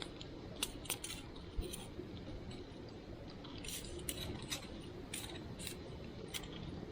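Wood fire crackling, with irregular sharp snaps over a steady low rustle.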